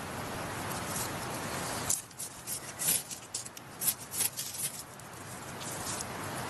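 A steady rush of stream water, then after about two seconds a quieter stretch of sharp, irregular snaps and crackles from a small wood fire being lit and its kindling handled.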